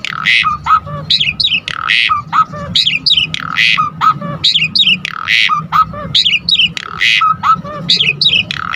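Asian pied starling (jalak suren) singing a repeating phrase about every second and three quarters: a loud harsh rasping note, then quick falling whistles and lower chirps.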